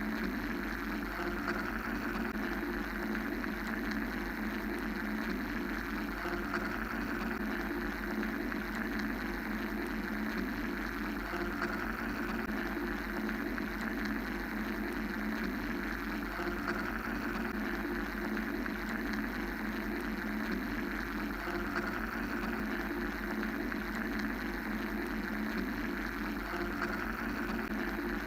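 Steady mechanical drone, like white noise, with a low hum under it. A higher rushing layer swells and fades slowly every few seconds.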